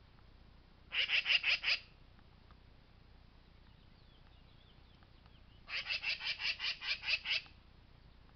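Black-billed magpie chattering: two runs of rapid, harsh notes, about six a second, a short run about a second in and a longer one of about a dozen notes near the end.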